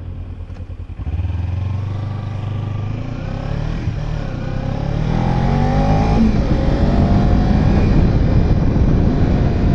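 Kawasaki Ninja 300's parallel-twin engine under way. It picks up about a second in, then rises in pitch as the bike accelerates, and runs louder from about the middle on.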